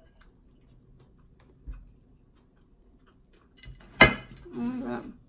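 Faint clicks and taps of eating at a table, then one sharp knock about four seconds in, followed by a short murmur of voice.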